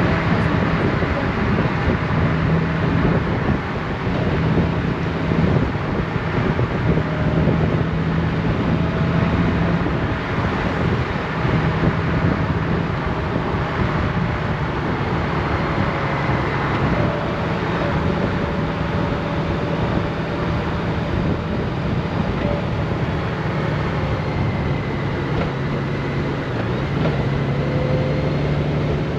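Honda Gold Wing motorcycle under way at cruising speed: a steady engine hum mixed with wind and road noise. The engine note shifts slightly a few times.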